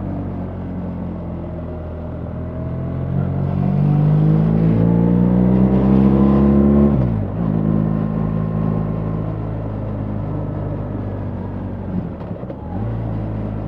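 BMW R 1300 GS boxer-twin engine under way, its pitch rising for a few seconds as the bike accelerates, then dropping sharply about seven seconds in at a gear change. It then pulls steadily, with a second brief dip near the end.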